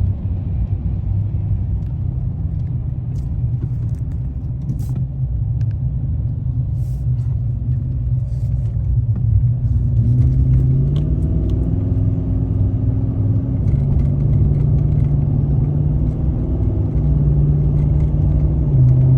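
Nissan Titan pickup's V8 engine and tyre rumble heard inside the cab while driving, a steady low drone. Its pitch steps up about halfway through and again a few seconds later.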